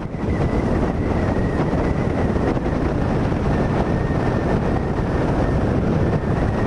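Honda CB500X motorcycle riding at road speed: steady wind rush on the camera microphone over engine and road noise, with a thin steady whine throughout.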